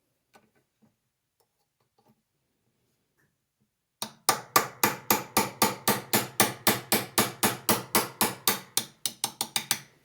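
Hammer tapping a small pin punch to drive the pin out of a steel hinge held in a vise. After a few faint clicks, a fast, even run of sharp metallic taps starts about four seconds in, about five a second.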